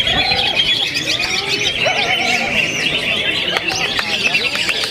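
Several cucak ijo (greater green leafbirds) singing at once, a dense tangle of rapid, fast-changing trills and whistled phrases.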